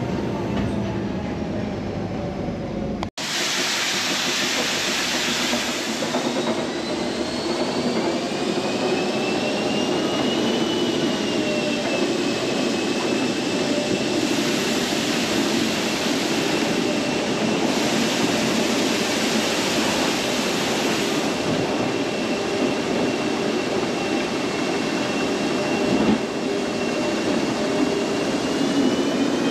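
Electric cog-railway train running: a steady rumble of wheels and drive, with a high whine that glides up and down and then holds steady. There is a brief dropout about three seconds in.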